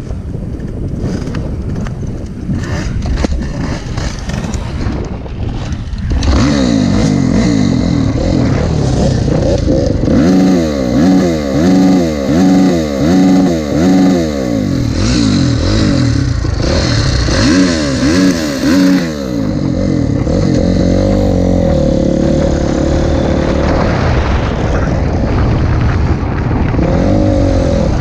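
Motocross bike engine: it comes in loudly about six seconds in after some rattling and wind noise. It is revved up and down in a run of quick blips, then runs steadily.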